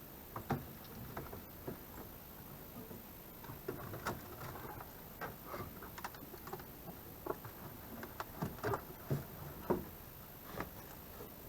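Irregular light knocks and taps, a few a second, growing busier and a little louder toward the end.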